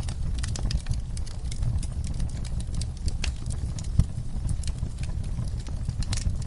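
Wood fire crackling: a dense, irregular run of sharp pops and snaps over a steady low rumble, with one louder pop about four seconds in.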